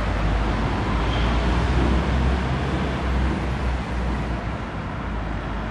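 City street noise: a steady wash of road traffic with a deep rumble underneath, fading a little near the end.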